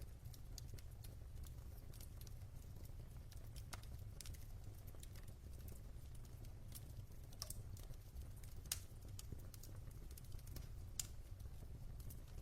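Logs burning in a fireplace: irregular sharp crackles and pops over a low, steady rumble, with a couple of louder pops in the second half.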